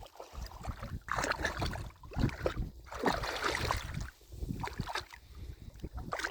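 Shallow water sloshing and splashing in irregular surges, about one every second, with a low rumble under it.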